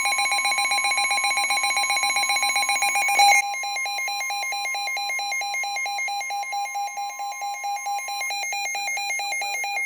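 NOAA Weather Radio emergency alert signal: a loud, buzzy electronic screech of SAME digital alert tones with a steady single-pitched warning alarm tone beneath. It changes pattern a little over three seconds in and cuts off at the end. The signal heralds a new severe thunderstorm warning broadcast.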